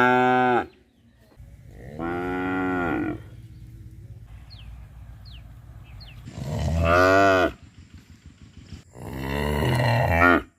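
A cow mooing over and over: the end of one long moo, then three more drawn-out moos a few seconds apart, each lasting about a second and a half.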